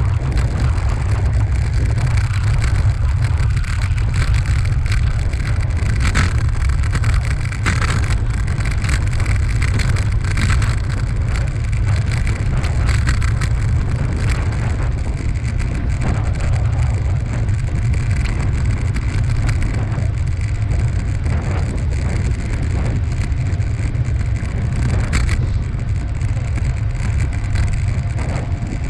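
Steady, loud wind rumble buffeting the microphone of a rider on the move, with scattered light clicks and rattles over it.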